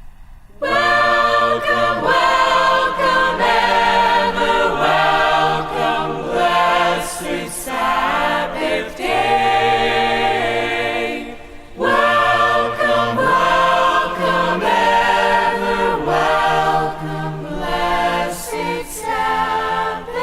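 A choir singing a hymn a cappella in chords, in two long phrases with a short break about eleven seconds in.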